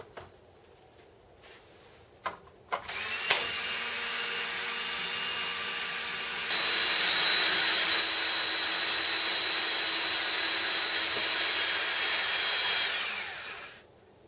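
An electric power tool motor starts after a few clicks and runs steadily with a whine. About six seconds in it speeds up and gets louder, then it runs down and stops near the end.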